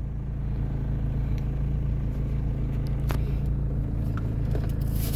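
Mitsubishi Lancer's 4G92 inline-four engine idling steadily, heard from inside the cabin, warm and at normal operating temperature now that a thermostat is fitted.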